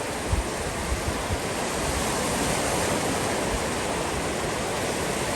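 Wind rushing across the microphone, a steady loud hiss with a few low buffets in the first second and a half.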